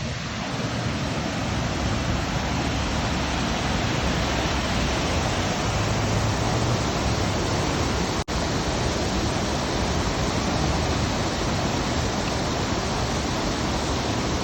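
Loud, steady rush of creek water pouring over a drop, swelling over the first couple of seconds as it comes closer. The sound cuts out for an instant about eight seconds in.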